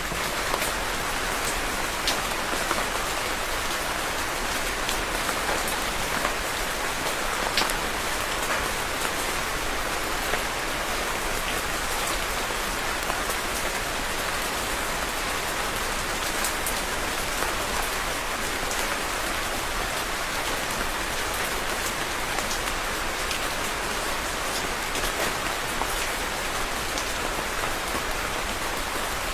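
Steady rain falling and pattering on a surface, a constant hiss with scattered sharp drop ticks.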